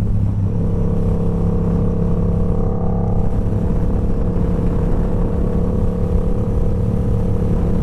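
Motorcycle engine idling steadily in neutral, its low note holding at one pitch with no revving. A steady higher hum joins it about half a second in.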